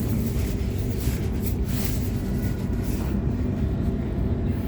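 Sydney Trains Waratah (A-set) electric multiple unit running along the track, heard from inside the train as a steady low rumble of wheels and running gear.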